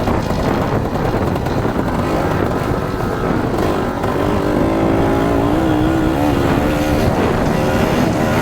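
Dirt bike engine running under a dense rushing noise. From about halfway through, a clearer engine note rises and falls with the throttle.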